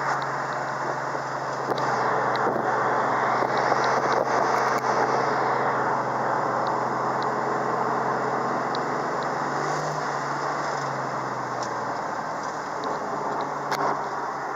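1971 Dodge Charger R/T's 440 V8 running at a steady cruise, heard from inside the cabin as a low drone under road and tyre noise, swelling for a few seconds near the start, with light ticks and rattles.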